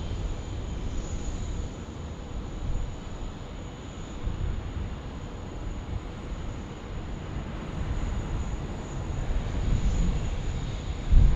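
Jet airliner engines rumbling steadily, with the rumble growing louder near the end.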